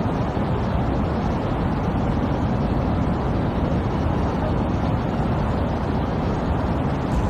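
Fast-moving floodwater rushing, a steady, dense roar heaviest in the low end.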